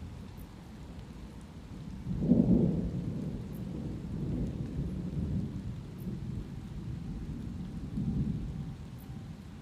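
Thunder rumbling low under light rain. A louder peal about two seconds in rolls on for several seconds and swells again near the end.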